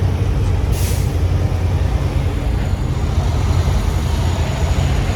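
Semi truck's diesel engine running with a steady low rumble, heard from the cab, with one short hiss of air from the air brakes about a second in.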